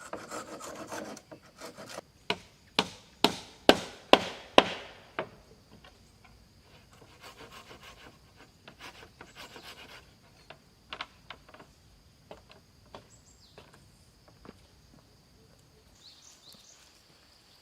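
Hand-working of wood: scraping or sawing that stops about a second in, then about seven sharp knocks on wood about half a second apart, then quieter scraping and scattered light taps.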